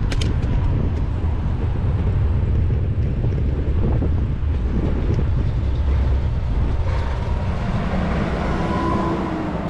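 Wind rumbling over the action camera's microphone while riding a bicycle along a city street, with passing road traffic underneath. A few light clicks at the start and a brief faint whine near the end.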